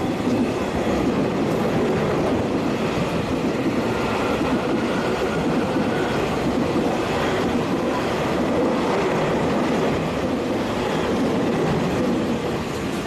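Taiwan Railway train running along the platform, a loud steady rumble of wheels and running gear.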